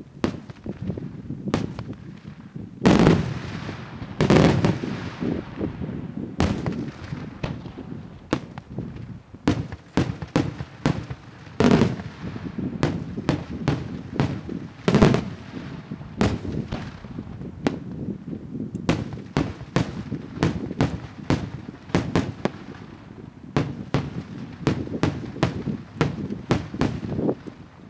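Daytime aerial fireworks: shells bursting in a dense, irregular run of sharp bangs over a continuous low rumble. The heaviest blasts come about 3, 4, 12 and 15 seconds in.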